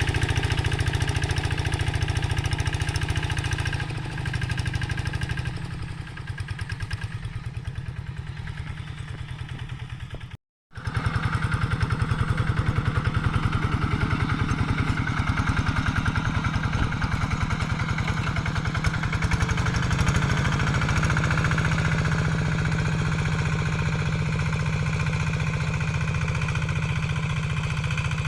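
Diesel engine of a Quick G3000 two-wheel hand tractor running steadily under plowing load, with a fast even beat. It is quieter for a few seconds, the sound drops out for a moment about ten seconds in, then the engine comes back louder.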